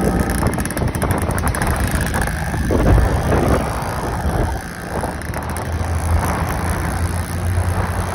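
Yamaha F1ZR two-stroke motorcycle engine running while the bike is ridden, with wind buffeting the microphone. Its carburettor is set up for the raspy 'ngorok' note.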